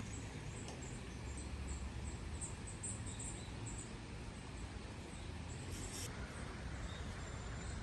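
Outdoor ambience: a steady low rumble with a run of faint, high, short chirps, thickest around two to three seconds in.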